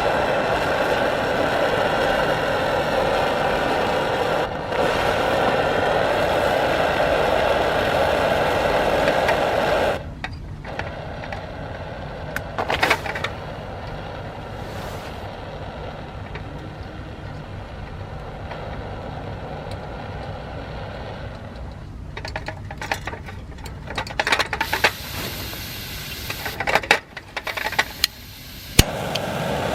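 Phoebus 725 pressurised gasoline camp stove burner running with a steady roar. About ten seconds in the sound drops sharply to a quieter steady hiss, and near the end come a series of clicks and knocks.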